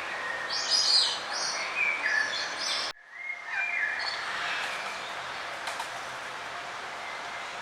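Songbirds singing over steady background noise: a run of high, quick chirping phrases for the first few seconds, a sudden brief drop-out near three seconds in, then softer calls.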